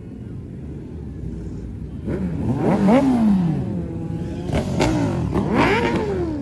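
A vehicle engine revved twice, its pitch climbing and then dropping back each time, over a steady low rumble of idling.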